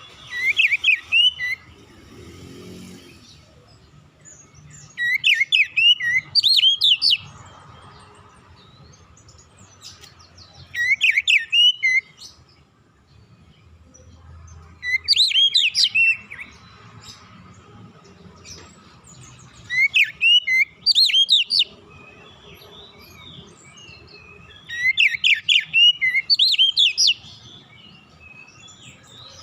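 Oriental magpie-robin (kacer) singing in short phrases of quick, sweeping whistled notes, one phrase every four to five seconds, six in all. A faint steady tone hums underneath.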